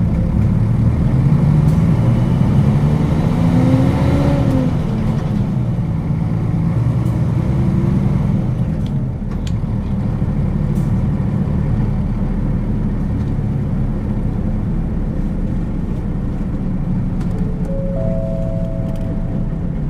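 Interior running sound of a Nissan Diesel KL-UA452KAN city bus: the diesel engine climbs in pitch as the bus accelerates for a couple of seconds, then runs on steadily with road noise. Near the end, a short two-note electronic chime sounds in the cabin.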